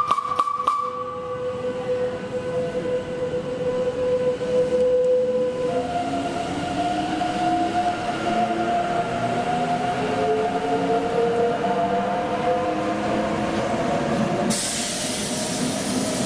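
Matterhorn Gotthard Bahn train running, opening with a few sharp clicks. A steady whine follows, then shifts higher about six seconds in, with several tones slowly rising beneath it. A hiss joins near the end.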